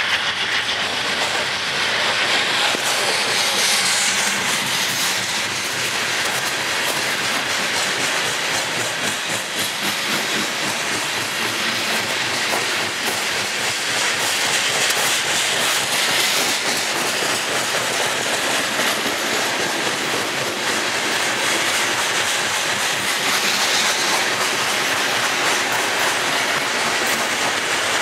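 Loaded coal cars of a long freight train rolling past close by: a steady run of wheel-on-rail noise with a continuous clickety-clack of wheels over the rail joints.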